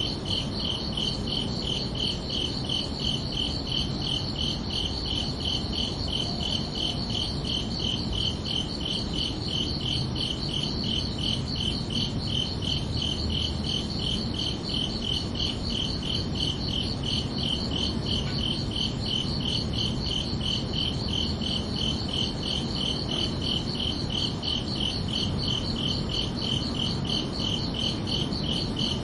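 Crickets chirping in a steady, even rhythm at two high pitches, over a low background hum.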